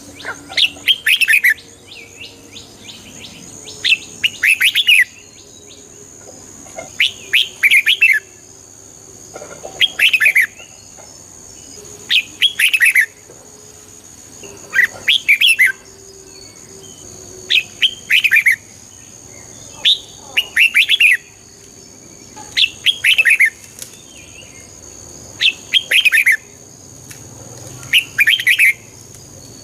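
Red-whiskered bulbul singing its short, bubbly song phrases over and over, one burst of quick notes about every two and a half seconds.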